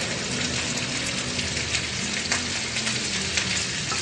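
Fried rice and vegetables sizzling steadily in a wok, with a few light clicks of the spatula.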